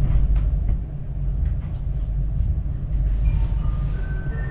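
Chinese high-speed CRH train running, heard as a steady low rumble. Faint short tones come in near the end.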